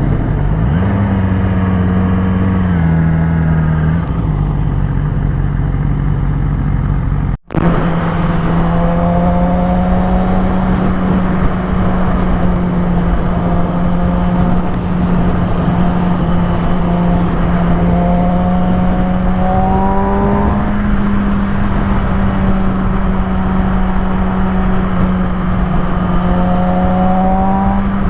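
Sport motorcycle engine running at highway speed with wind rushing over the microphone. The engine note rises briefly a few times. There is a sudden short break about seven seconds in.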